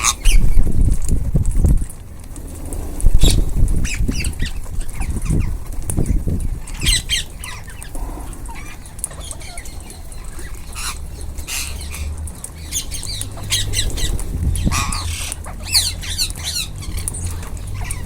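A group of ring-necked parakeets squawking, with short, sharp calls scattered throughout, over low thumps and rumble that are loudest in the first few seconds.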